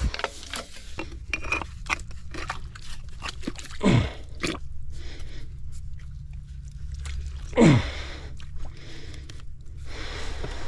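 Irregular crunching and scraping of dirt and gravel, with two louder sweeping scrapes about four and seven and a half seconds in, over a steady low hum.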